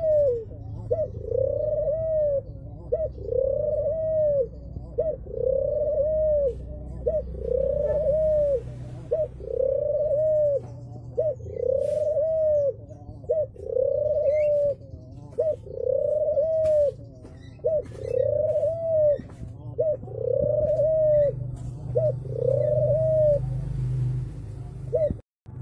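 Pied puter dove (domestic Barbary dove) cooing over and over, each coo a short note followed by a longer arched one, repeating about every second and a half before stopping near the end. A steady low hum runs underneath.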